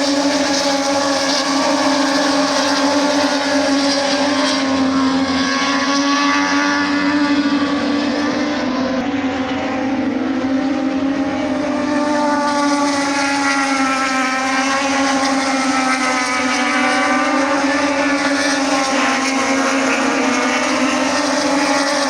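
Engines running in a continuous drone that wavers slowly in pitch, with no sharp revving or passing sweeps.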